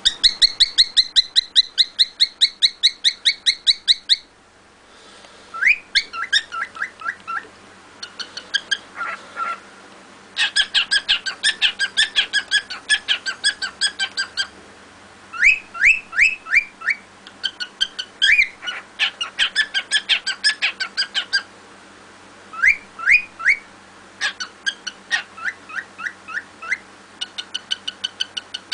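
A cockatiel singing: phrases of rapid, evenly repeated high chirps, about eight to ten a second, some sweeping upward, separated by short pauses.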